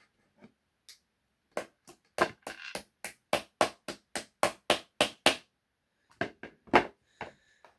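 A run of sharp clicks and taps, about four a second for several seconds, then a few more near the end. They come from the small parts of an RC car's front end being worked by hand during reassembly.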